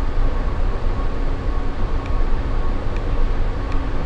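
Steady low rumbling background noise with a faint hum, broken by a few faint clicks about two, three and nearly four seconds in.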